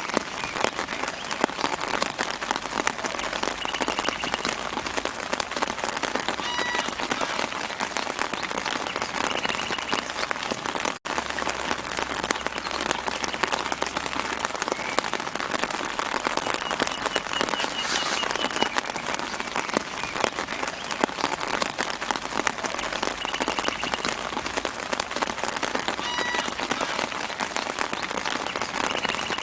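Light, steady rain pattering on leaves and the ground, a dense crackle of drops, with faint bird chirps now and then in the background. The sound cuts out for an instant about eleven seconds in.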